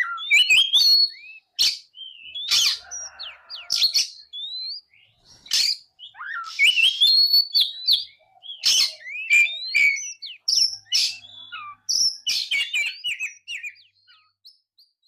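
Oriental magpie-robin (kacer) singing a fast, varied song of short rising and falling whistles mixed with sharp clicks, tapering off near the end.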